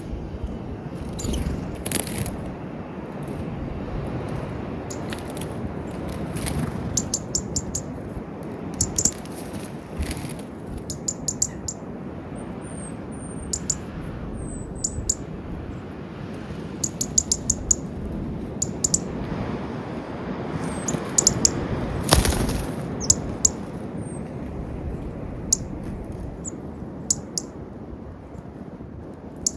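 Small birds at a peanut feeder giving many short high chirps and quick runs of chips, with a louder rustle of wings about two-thirds of the way through, over a steady low background rumble.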